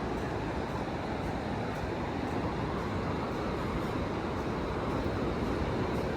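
Steady low rushing noise of wind and distant surf across an open beach, with faint, regular footfalls on sand.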